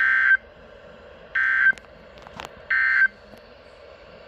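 Three short, loud bursts of emergency alert data tones, about a second and a half apart: the Emergency Alert System end-of-message signal that closes a weather radio tornado warning broadcast.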